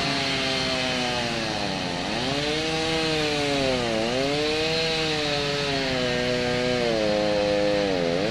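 A small engine running at high speed, its pitch sagging and recovering three times, about two, four and eight seconds in.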